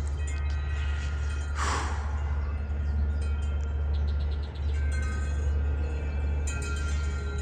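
Wind chimes ringing in gusty wind, with heavy wind rumble on the microphone. A brief rushing sound comes about two seconds in.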